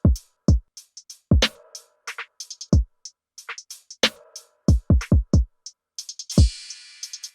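Drum-machine beat played through a compressor plugin: deep kick drums that drop in pitch after each hit, with crisp hi-hat ticks and snare or clap hits between them.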